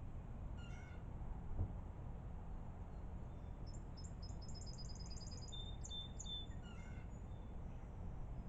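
Songbirds calling: a short, harsh call about a second in and again near seven seconds, and between them a rapid, high-pitched trill of about eight notes a second.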